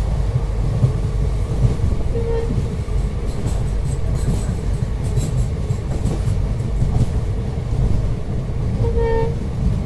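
Train running along the track: a steady low rumble of wheels and carriage, with two brief tones, one about two seconds in and one near the end.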